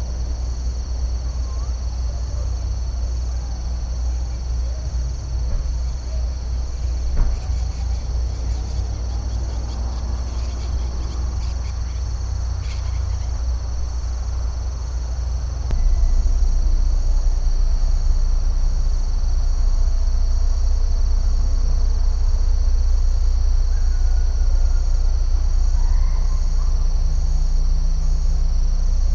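Steady chorus of crickets trilling in two high bands over a constant low rumble, with a few faint short calls in between. The whole sound gets louder about halfway through.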